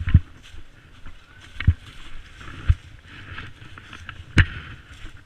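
A series of dull thumps, about one a second, with rustling between them and one sharper knock about four and a half seconds in.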